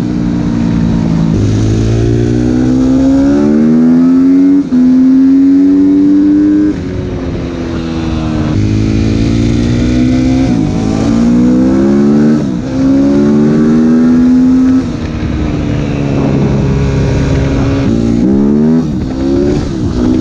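Suzuki RM-Z 250 single-cylinder four-stroke with an open Akrapovič exhaust, run hard under load. Its pitch climbs and falls back several times as the gears change and the throttle is rolled off and opened again.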